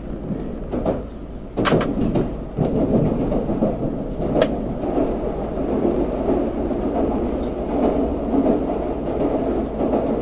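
Tokaido Shinkansen train running, heard from inside the passenger car: a steady low rumble with a couple of sharp clicks, one about two seconds in and one about four and a half seconds in.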